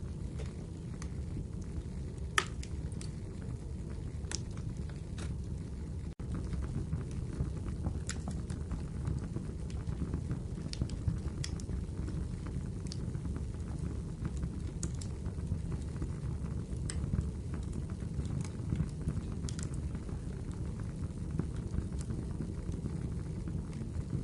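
Wood fire burning in a fireplace: a steady low rumble of flame with scattered sharp crackles and pops from the firewood, one louder pop a couple of seconds in. There is a momentary gap in the sound about six seconds in.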